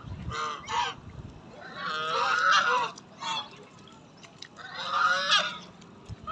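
Ducks quacking loudly in a few groups: two short calls, then a run of overlapping quacks, a single quack, and another run near the end.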